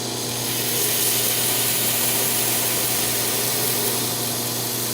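Belt grinder running over a 10-inch contact wheel, hollow-grinding the bevel of a Damascus steel chisel blank: a steady grinding hiss over the hum of the motor. The steel is still soft and not yet heat-treated.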